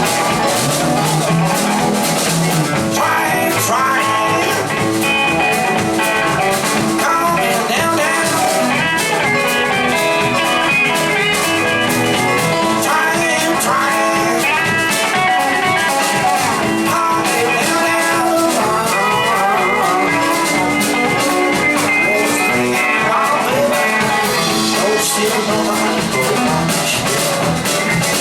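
Blues-rock band playing, with guitar lines bending in pitch over drums, bass and keys.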